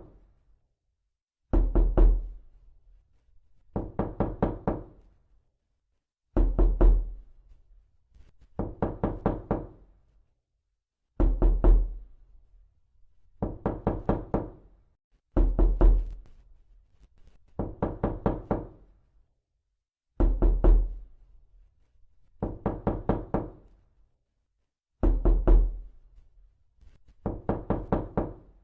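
Repeated knocking in quick bursts of about five knocks, a burst every two and a half seconds or so. A heavier, louder burst with a deep thud alternates with a lighter, quieter one.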